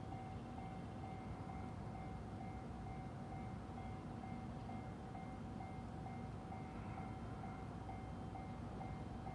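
Faint, steady rumble of a JR 213 series electric train at a distant station, with a high tone repeating at an even beat throughout.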